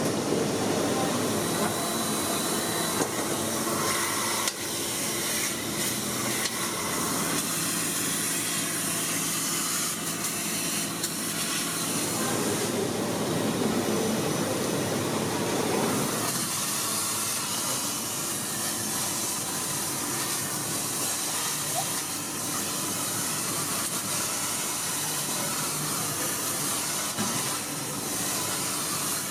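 Kärcher IVR-L 65/12-1 Tc industrial wet-and-dry vacuum cleaner running with a steady rushing hiss of suction as it vacuums up oil. The sound changes abruptly several times.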